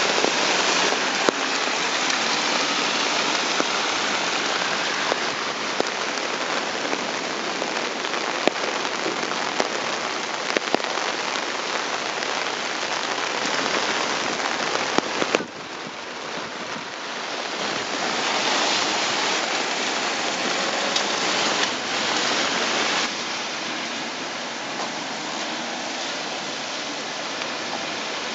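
Heavy downpour of rain hitting a street, with scattered sharp drop impacts close by. The sound changes abruptly about halfway through and again about three-quarters through.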